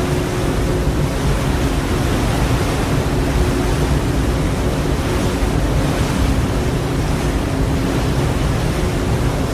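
Steady rush of sea waves and wind with a low, even rumble underneath, as heard on board a ship at sea.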